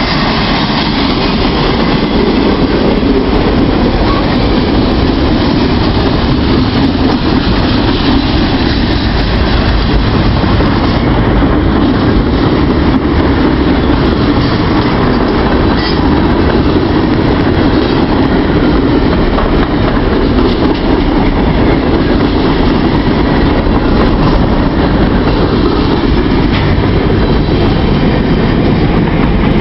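Freight cars of a long Norfolk Southern train rolling past at speed: a loud, steady rush of steel wheels on rail.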